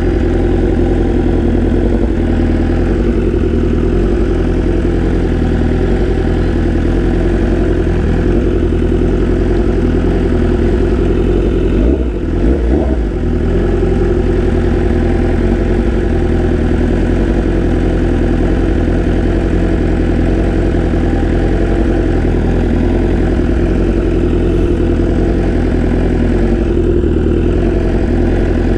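BMW S1000RR inline-four engine running steadily at low revs, with a brief dip and rise in engine pitch about twelve seconds in.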